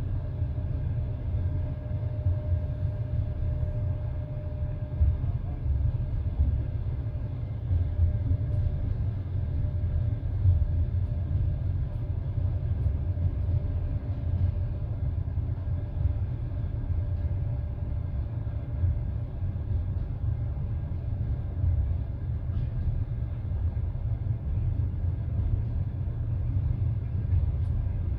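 Passenger train running along the line, heard from inside the carriage: a steady low rumble of the wheels on the rails, with a few brief louder knocks.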